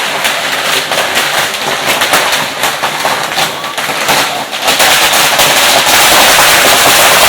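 Firecrackers going off in a rapid, unbroken crackle of many small bangs, growing denser and louder about two-thirds of the way through.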